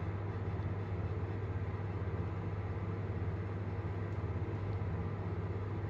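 Steady low hum inside a stationary London Underground Northern Line carriage (1995 Stock) from the train's onboard equipment while it stands waiting on the Kennington Loop.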